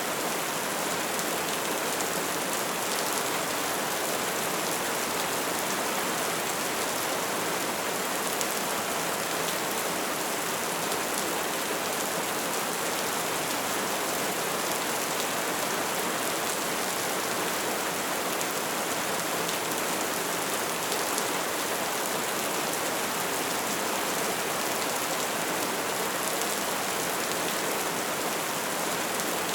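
Wood fire burning: a steady, dense crackle of small pops over a constant hiss.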